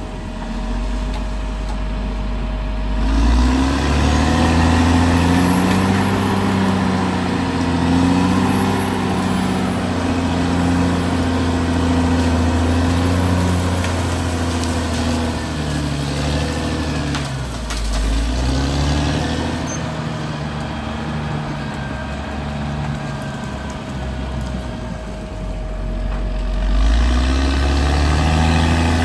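Caterpillar D6R XL crawler bulldozer's diesel engine working under load. It revs up about three seconds in, drops back briefly about halfway through, and climbs again near the end.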